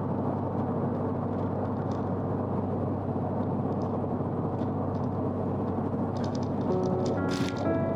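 Subaru BRZ driving at expressway speed: steady road and engine noise with no music over it. Background music with piano-like notes comes back in near the end, along with a brief hiss.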